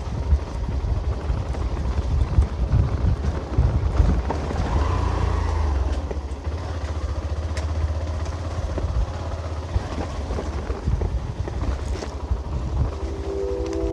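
Motorcycle running as it is ridden, with a low rumble of wind on the microphone.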